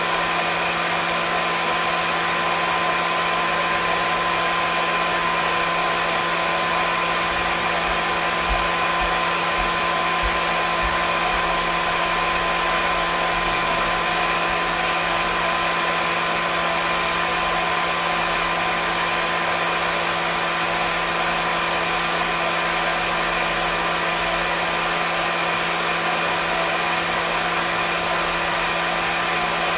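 Hair dryer running steadily: an even rush of blown air with a constant motor hum and whine.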